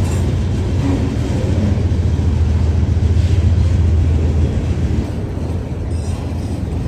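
Freight train rolling past with a steady low rumble that eases somewhat about five seconds in.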